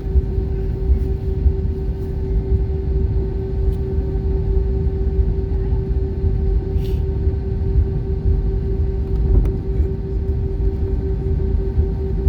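Cabin sound of an Airbus A320-232 taxiing: a steady low rumble with a constant hum, its IAE V2500 engines at taxi power.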